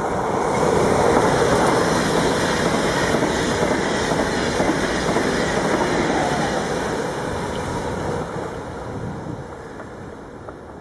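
A train passing through a railway station, loudest over the first half and dying away over the last few seconds.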